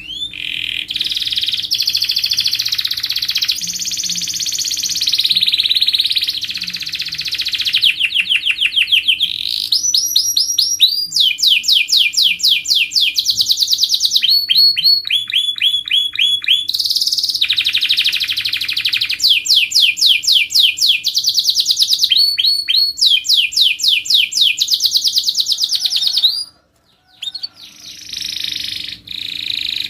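Domestic canary singing a continuous song of trills and rolls, one phrase of fast repeated notes after another, each held for a few seconds before it changes. The song breaks off briefly near the end, then resumes.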